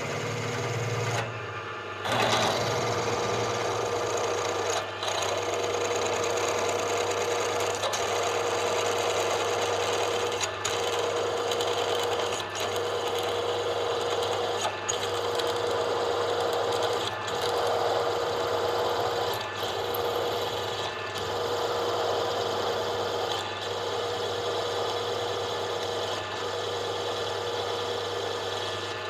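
Electric drill running and cutting into metal, the cutting starting about two seconds in. The sound dips briefly every two to three seconds, as the bit is eased back and fed in again.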